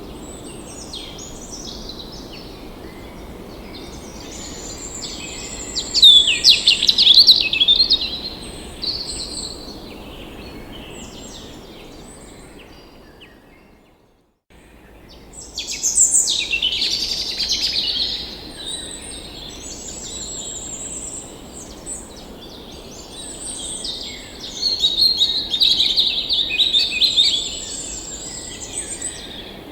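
Several songbirds singing and calling together, with chirps and trills and three louder bouts of song, over a faint steady background hiss. About halfway through, the sound fades out to silence for a moment and comes back.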